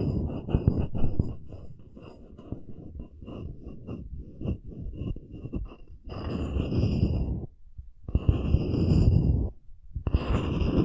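Close-miked scratching on a wooden cup holder: quick, dense scratching strokes, lighter in the middle and louder in stretches after about six seconds, with two brief pauses near the end.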